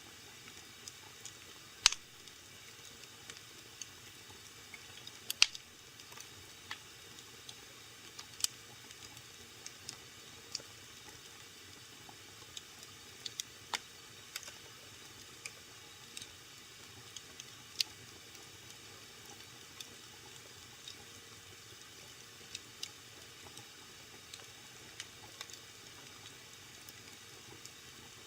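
Wood fire in a fireplace crackling: irregular sharp pops and snaps over a low steady hiss, with two louder pops about two and five seconds in.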